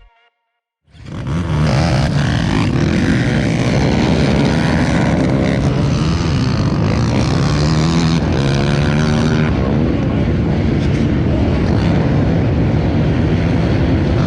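2018 Polaris Scrambler XP 1000 ATV's parallel-twin engine running loudly, starting about a second in after a brief gap, its pitch wavering up and down.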